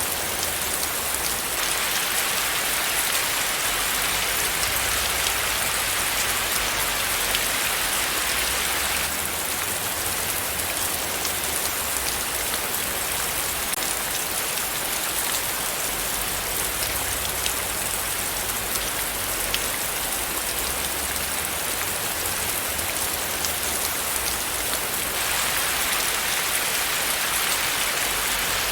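Steady rain falling: a dense, even hiss with scattered faint drop ticks, its tone shifting slightly a few times.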